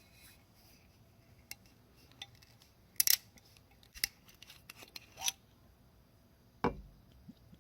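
Short sharp clicks and clinks of a glass and a bottle being handled as a drink of Suntory Kakubin whisky is got ready. There is a loud double click about three seconds in and a heavier knock near the end.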